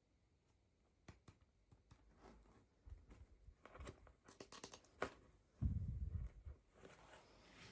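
Faint handling of toy packaging during unboxing: scattered light clicks and crinkling or tearing, busiest about three and a half to five seconds in. About five and a half seconds in, a dull low bump lasting about a second is the loudest sound.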